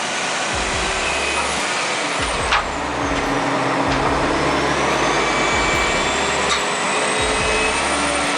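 Heavy truck or machine engine running steadily, with a sharp click about two and a half seconds in.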